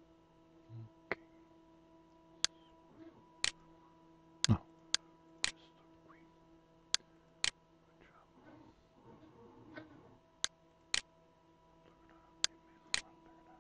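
Computer mouse button clicking, a dozen or so sharp clicks, mostly in pairs about half a second apart, over a faint steady hum.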